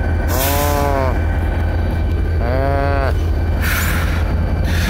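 An engine idles with a steady low drone. Over it come two drawn-out calls that rise and fall in pitch, one near the start and one about halfway through.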